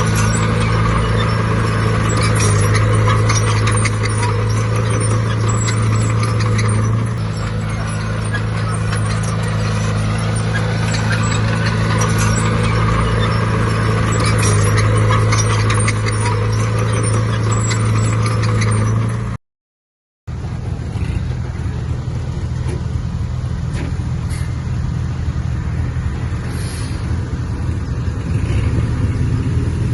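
Heavy earthmoving machine's diesel engine running steadily under load, with metallic rattling and clanking over it. The sound drops out briefly about two-thirds through, and after that a slightly different engine is heard.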